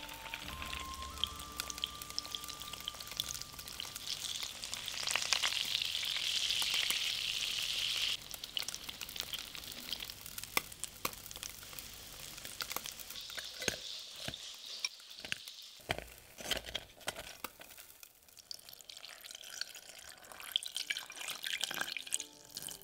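Slices of pressed-tofu vegan chicken (su ji) frying in shallow oil in a pan: a steady sizzle full of crackles. It is densest and loudest from about five to eight seconds in, then cuts off and turns into scattered spitting pops.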